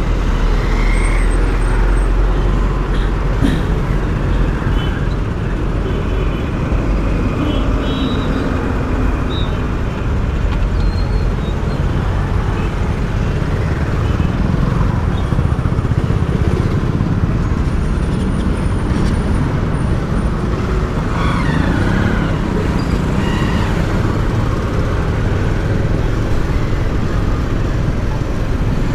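Steady road and traffic noise heard from a moving motorcycle: a dense low rumble of engine, tyres and wind, with a few faint short higher tones from the surrounding traffic.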